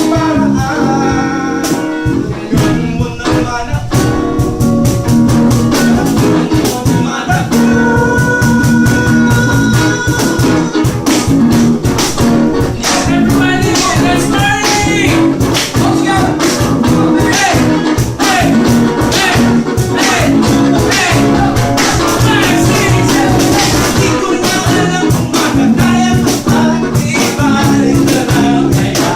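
A band playing a song loudly: guitar with singing over a steady beat.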